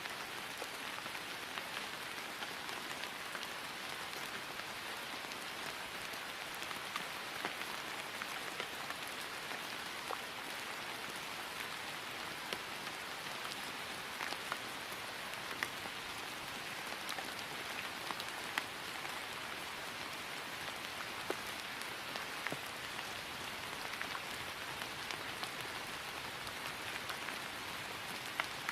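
Steady rain falling on grass, an even hiss with scattered individual drops ticking through it.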